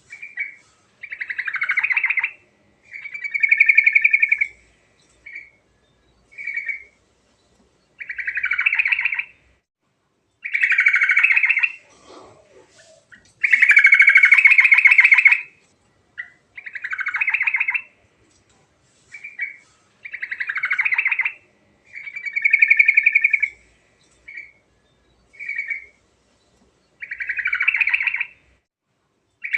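Yellow-vented bulbul (trucuk) singing in full voice: a string of rapid trilled phrases, each half a second to two seconds long, around one steady pitch, with short pauses between them. The longest and loudest phrase comes about halfway through.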